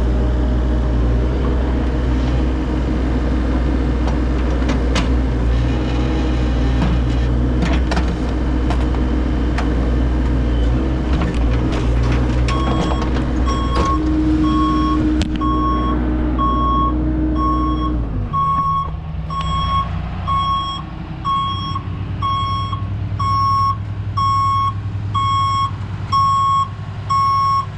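Heavy diesel equipment engine running, with scattered clanks. About halfway through, a backup alarm starts beeping steadily, about once a second, as the machine reverses, and the engine note changes a few seconds later.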